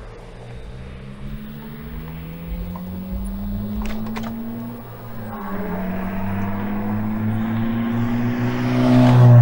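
A car engine accelerating nearby, rising in pitch, dropping briefly at a gear change about halfway through, then climbing again and growing louder near the end.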